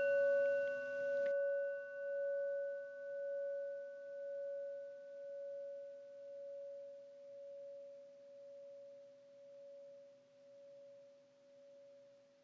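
A sound bowl ringing out after a strike: one long fading tone with a slow pulsing wobble about once a second, its higher overtones dying away in the first few seconds.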